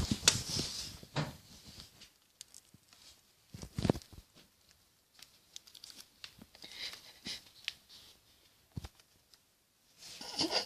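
Pet birds being fed: short spells of rustling and tearing with light tapping clicks, as of beaks pecking and tearing at food.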